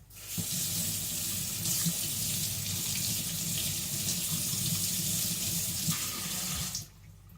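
Water from a tap running steadily into a sink, then shut off abruptly near the end.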